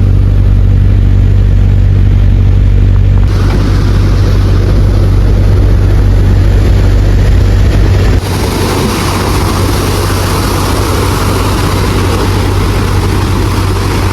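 An engine running steadily under loud rushing noise. The noise changes abruptly about three seconds in and again about eight seconds in.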